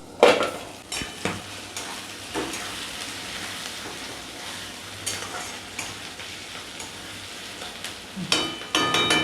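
Chopped onion, green chillies and tomato frying in mustard oil in a kadai: a steady sizzle broken by the scrape and clink of a spatula stirring. Near the end come a few louder metal clinks that ring briefly.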